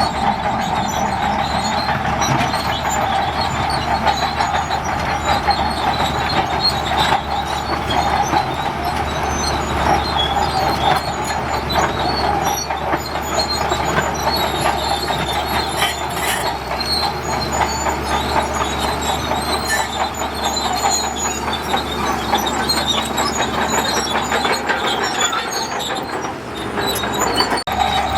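Crawler bulldozer working in sand: its diesel engine drones steadily while the steel tracks clank and squeal with many small rattling clicks.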